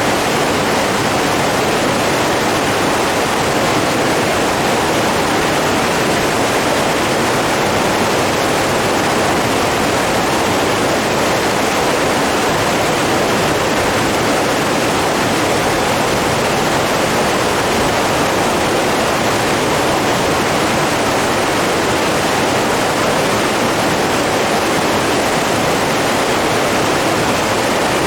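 Steady, unbroken rush of flowing water, like a stream or small falls, with no changes or separate events.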